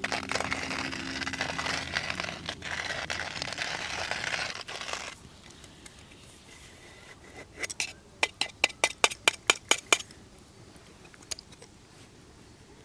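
Hand coffee grinder crunching beans for about five seconds. A few seconds later comes a quick run of about a dozen sharp clicks.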